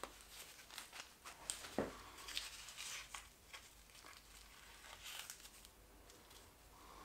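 Faint scattered clicks, taps and rustling from engine parts and tools being handled, busiest in the first few seconds and dying away toward the end.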